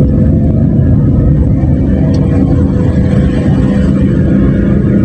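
Motorcycle ride noise: a steady, loud rumble of the engine running, with road and wind noise on the rider's microphone.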